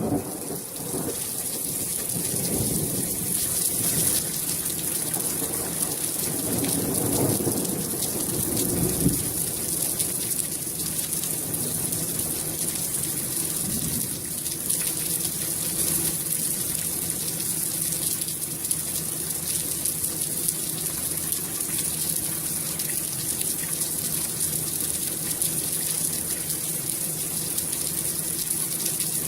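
Steady rain falling hard, with thunder rumbling low through roughly the first nine seconds.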